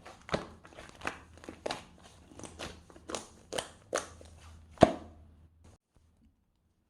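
A series of sharp, crunchy clicks or crackles, about two a second and irregular, the loudest near the end.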